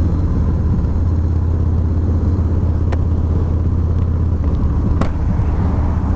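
Harley-Davidson Low Rider S V-twin engine running at low revs with a steady, loud rumble. A few short clicks come through about halfway in and again near the end.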